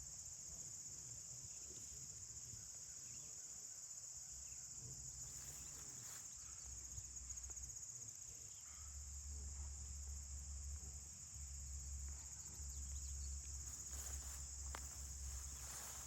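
Faint, steady high-pitched insect chorus, a constant chirring trill, with a low rumble joining underneath about halfway through.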